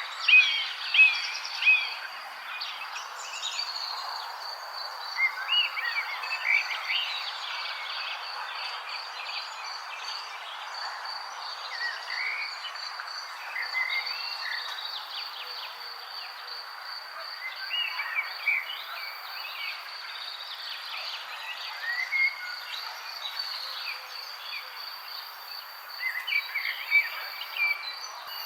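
Wild songbirds chirping in scattered clusters of short calls, busiest near the start and again near the end, over a continuous high-pitched insect trill and a soft even hiss.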